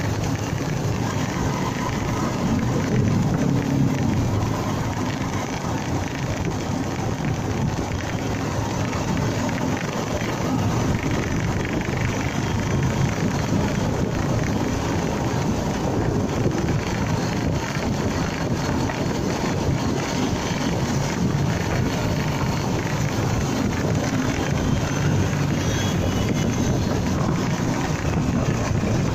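Honda MegaPro Primus motorcycle under way: engine running steadily, mixed with wind buffeting the microphone and road noise.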